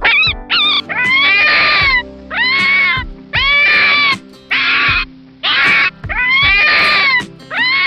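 Fennec fox calling: a run of about seven high, drawn-out whining calls, each under a second long with a brief gap between.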